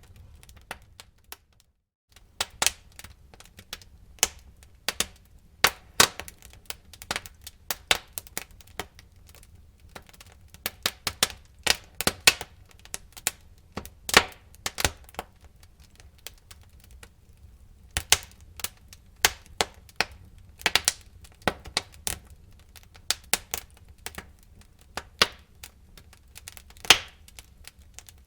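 Wood fire burning in a fireplace, crackling with many irregular sharp pops and snaps over a low rumble of flame. The low rumble cuts out for a moment about two seconds in.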